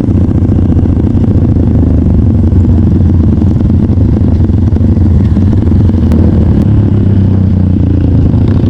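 Trail motorcycle engine running steadily at a low, even speed with some mechanical clatter.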